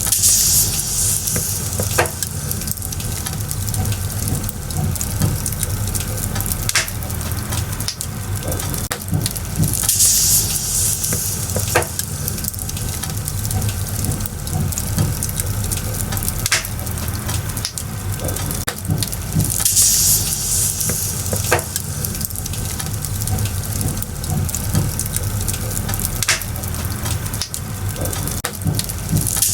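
Firewood burning in a bonfire, crackling steadily, with sharp pops every few seconds. The high hiss swells briefly about every ten seconds.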